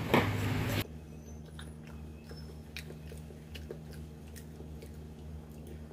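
A person chewing a deep-fried battered hotdog with shredded carrot, with soft mouth clicks. There is a louder stretch in the first second, then faint scattered clicks over a low steady hum.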